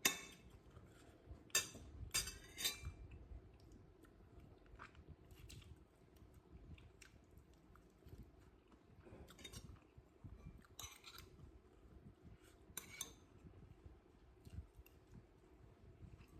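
Cutlery clinking against a plate while eating. There are four sharp clinks in the first three seconds, then three more spaced a second or two apart later on.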